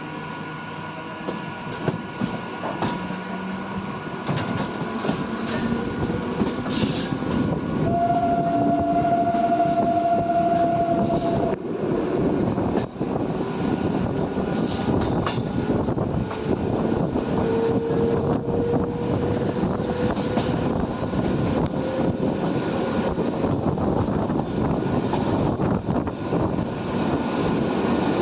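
Train running past on the track, its wheels rumbling and clattering and growing louder over the first several seconds. A horn sounds once, a single held note for about three and a half seconds, near the middle. Behind it a faint whine rises slowly in pitch.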